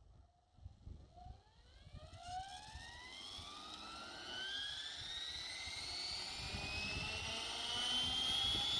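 Electric RC helicopter (OXY5) spooling up: the motor and rotor whine rises steadily in pitch and grows louder, levelling off near the end as the head reaches speed.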